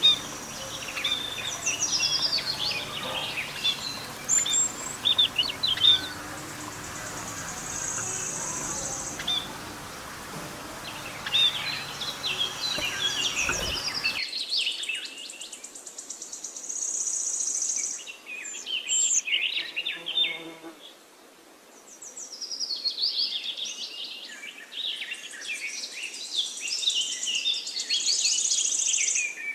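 A flock of small pet birds chirping and chattering, many short overlapping calls with high trills. About halfway through the low background hum drops away abruptly.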